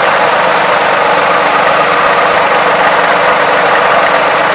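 Toyota 3.5L V6 engine idling steadily, heard up close, without the clacking from the variable valve timing that it made before a graphene oil additive went in; the owner has never heard it so quiet.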